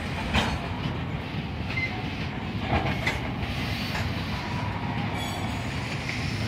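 Freight wagons, cement tank cars and a coil-loaded flatcar, rolling past on the rails with a steady rumble of wheels. Sharp clanks come about half a second in and again around three seconds in, and the wheels give a few brief squeals.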